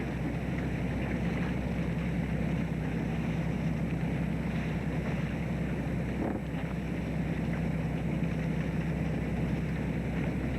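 Steady low drone of a fishing boat's engine, heard aboard, with wind and sea noise over it.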